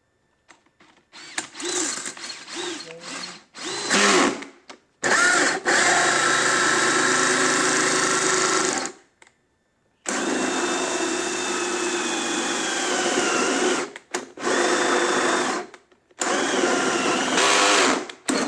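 Power drill running in a series of bursts, the longest about four seconds each, its motor pitch rising and falling as the trigger is squeezed and eased.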